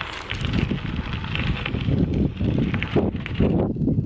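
Bicycle being ridden along a path: a rough, uneven rumble from the tyres and frame, with wind buffeting the microphone.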